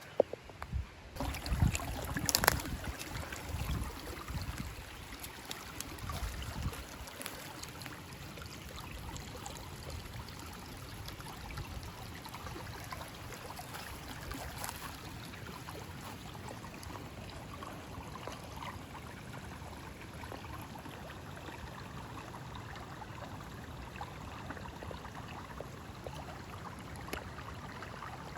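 Mountain stream running over rocks, a steady rush of water. During the first several seconds there are irregular low rumbles and a few knocks.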